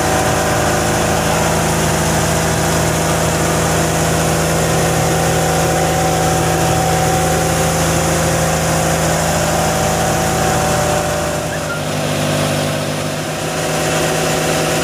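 Heavy rain hissing down over a fishing boat's engine, which runs steadily. About eleven seconds in, the engine's low hum fades and its note shifts a little, then settles.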